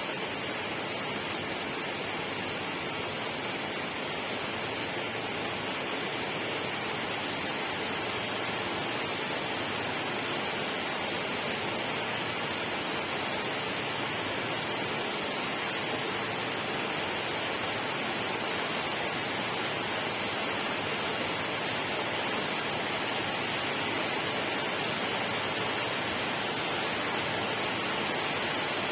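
Steady, unbroken rush of water, an even hiss-like noise with no drips, splashes or changes.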